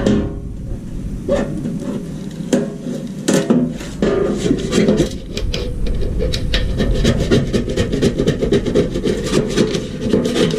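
Rapid scraping strokes on a hard surface, becoming dense and steady from about halfway in, with a few sharper knocks in the first half.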